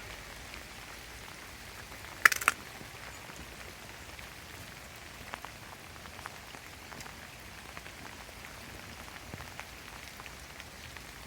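Steady rain falling in a garden, an even hiss with scattered single drops ticking on nearby surfaces. About two seconds in, a brief loud clatter of a few sharp clicks.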